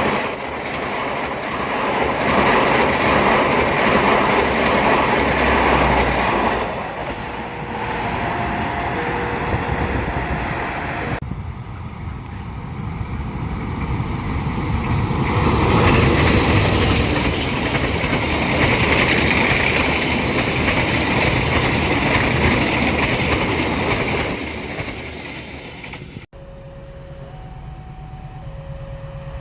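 Trains passing at close range, with rumble and wheel clatter on the rails, in several clips cut one after another. An alternating two-note tone sounds in the background during two of the clips.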